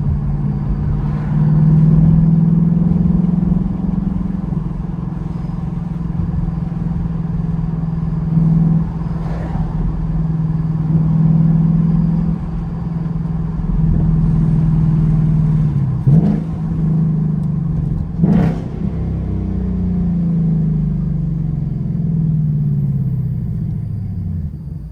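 2021 Ford Mustang GT's 5.0-litre V8 running under way with a steady deep exhaust drone. A little past halfway the pitch swoops quickly twice, and over the last few seconds it falls away as the car slows.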